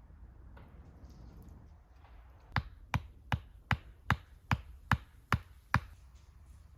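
Nine quick, evenly spaced strikes of a hand tool on wood, about two and a half a second, starting a little over two seconds in and stopping near the end.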